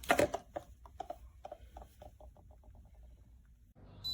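A run of light taps coming faster and fainter, like a small hard object bouncing to rest. Right at the end, after a cut, a steady high electronic beep begins.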